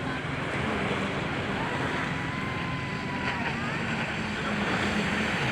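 Jet ski engine running steadily over water, with wind and wave noise.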